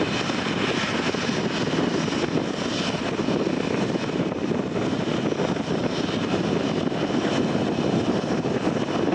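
Jet airliner engine noise, a steady rushing sound that holds even throughout.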